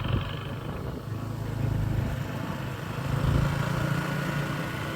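Motorbike running along the road, a steady low rumble.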